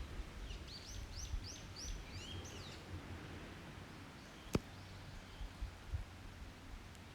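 A songbird sings a phrase of about five quick, repeated falling notes followed by a few lower notes. About four and a half seconds in, the open wood fire gives a single sharp pop.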